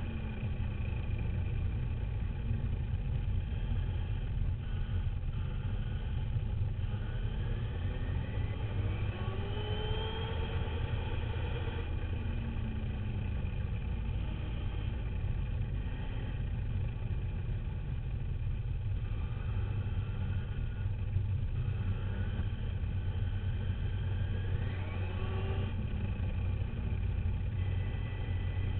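Radio-controlled dirt bike heard from an onboard camera: a steady low rumble with a motor whine that climbs steeply in pitch twice as the bike speeds up, then falls back.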